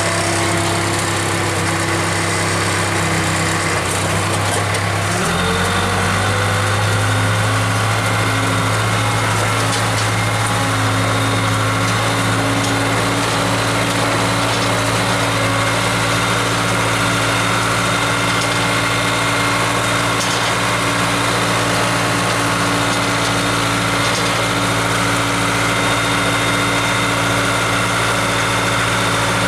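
Case 580K loader backhoe's diesel engine running steadily. Its note shifts slightly about five seconds in, then holds.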